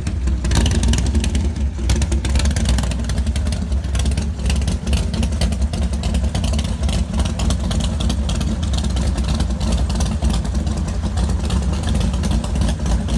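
A car engine running steadily with a low, rumbling exhaust and a fast, even pulse.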